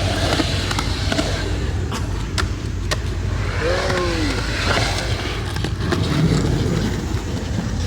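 Skateboard wheels rolling over concrete with a steady rumble, and a few sharp clacks of the board. There is a short vocal sound about four seconds in.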